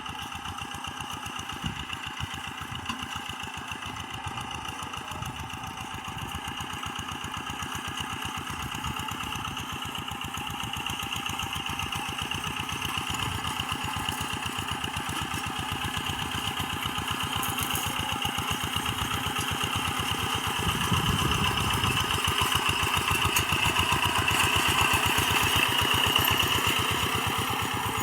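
Rice-paddy tractor engine running steadily with a rapid, even beat, growing louder through the second half and easing off slightly near the end.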